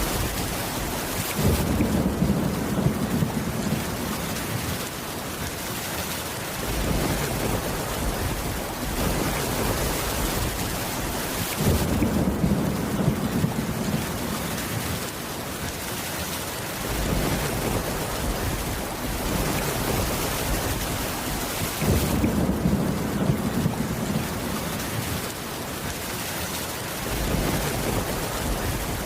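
Steady rain on a wooden cabin roof, with a low rumble of thunder that comes back about every ten seconds.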